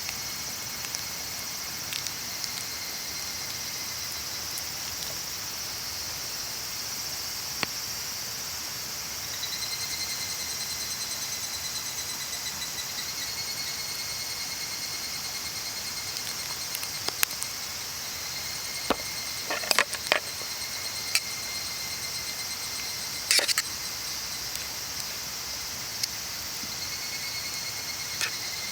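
Insects chirring steadily in a fast, high, pulsing drone, with scattered sharp clicks and a brief cluster of knocks about two-thirds of the way through.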